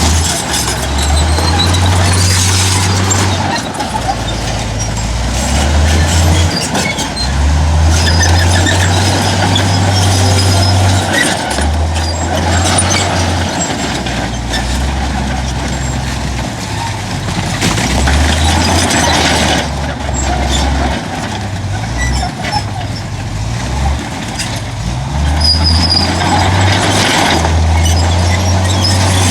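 Heavy earthmoving machinery at work. Big diesel engines run low and their note steps up and down every second or few as they take load, with clanking and hissing noise over them.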